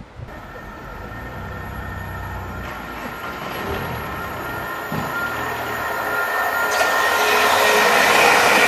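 South West Trains electric multiple unit approaching along the line, growing steadily louder. A steady whine runs throughout, and a high rushing hiss swells up about seven seconds in as the train draws near.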